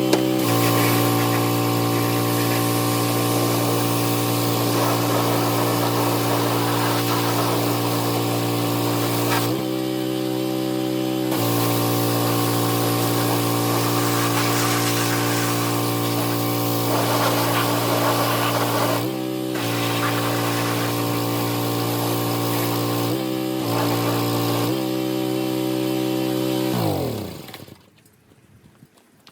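Pressure washer motor running steadily, its note shifting briefly several times as the spray trigger is released and pulled again. Near the end it is switched off and winds down with a falling pitch.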